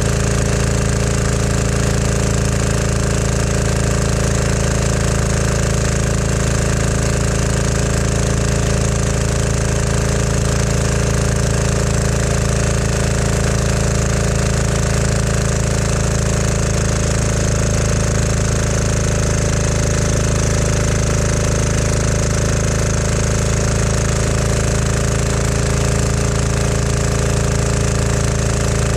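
A 196cc 168F single-cylinder air-cooled diesel engine driving a generator, running steadily on #2 diesel under a heavy electrical load near its maximum output.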